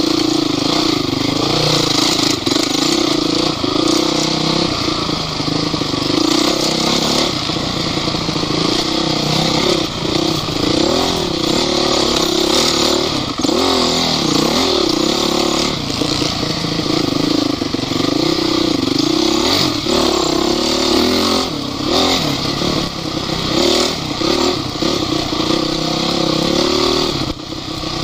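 Off-road vehicle's engine running under load, its pitch rising and falling repeatedly as the throttle is worked, with a brief lull near the end.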